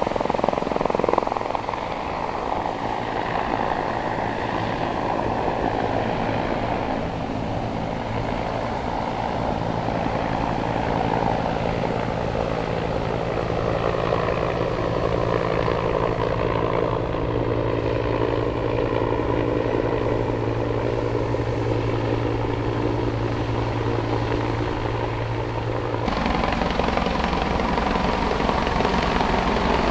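Helicopter running steadily overhead, a constant rotor and engine noise with steady low tones. The sound changes abruptly near the end, becoming fuller with a faint high steady whine.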